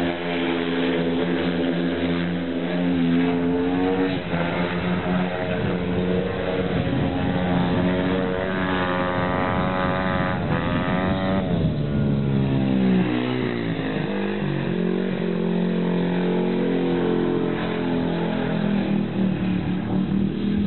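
Speedway motorcycle's 500 cc single-cylinder methanol engine running hard on a lap. Its pitch climbs about eight seconds in, then drops sharply a few seconds later as the bike passes and settles to a lower, steadier note.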